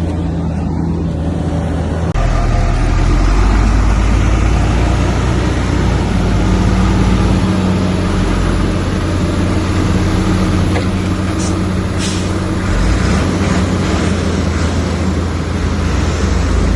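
Heavy diesel earthmoving machinery running steadily, with engine and track noise growing louder and harsher about two seconds in. A couple of short hisses sound near the middle.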